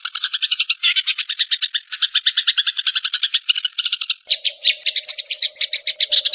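Recorded songbird calls for a masteran track: a fast, unbroken series of chirps, more than ten a second. About four seconds in, the chirps space out and a low steady tone joins beneath them.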